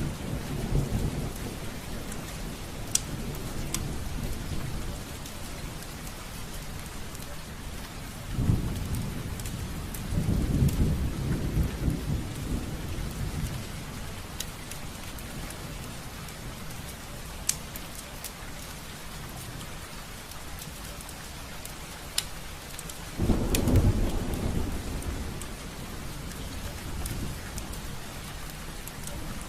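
Rain pattering on a window pane, a steady hiss with scattered sharp drop ticks. Low rolls of thunder come in about eight seconds in, again from about ten to thirteen seconds, and once more late on.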